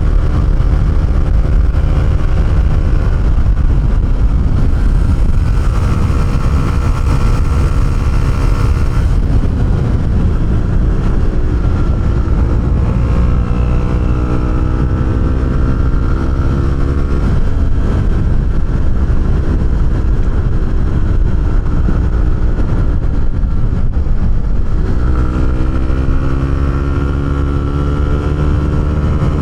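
Honda CB125R's single-cylinder engine through an Arrow aftermarket exhaust, ridden hard: the revs climb in rising sweeps, drop back between them as the throttle is closed or a gear is changed, and climb again near the end, with some wind rush under it.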